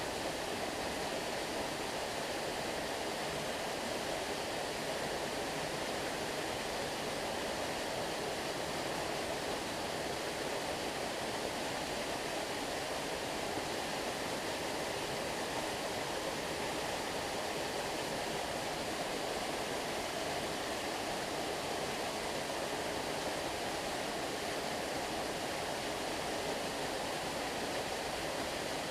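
Stream water rushing steadily: an even, unbroken hiss of flowing water with no single splashes standing out.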